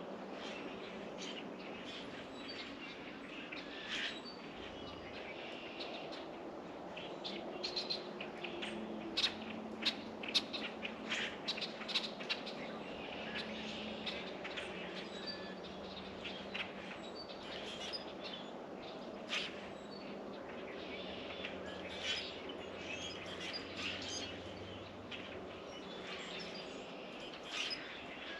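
Small songbirds at a feeder giving short, sharp chirps and chip calls, scattered throughout and busiest about a third of the way in, over a faint steady low hum.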